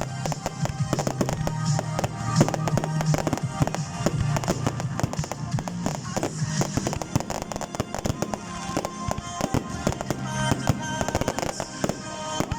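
Fireworks display going off in a rapid, continuous barrage of bangs and crackles, over music.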